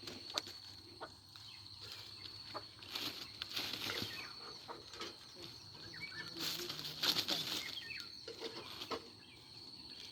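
Bee smoker's bellows being pumped, giving two stretches of airy puffing a few seconds apart. Birds chirp faintly in the background.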